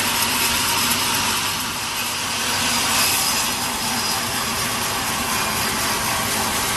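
Sawmill saw cutting through a log: a steady sawing noise, strongest in the upper range, that swells slightly about three seconds in.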